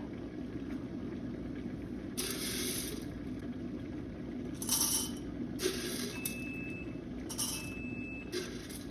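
Coffee being poured in several short, rattly bursts into a cup to weigh out an espresso dose, over a steady low hiss.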